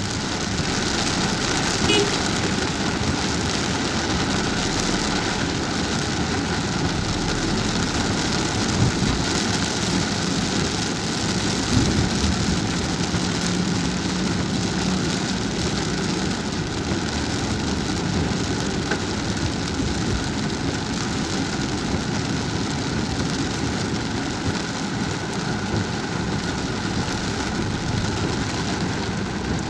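Rain falling on a moving car, a steady hiss mixed with the car's road and engine noise, with a few light knocks.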